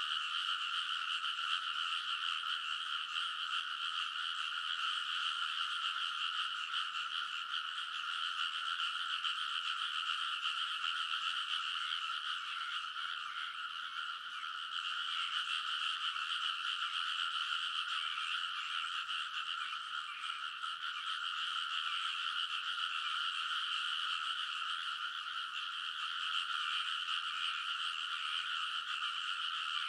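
A large chorus of paddy frogs calling all at once, so many overlapping croaks that they merge into one steady, unbroken wall of sound, with a slight lull about halfway through.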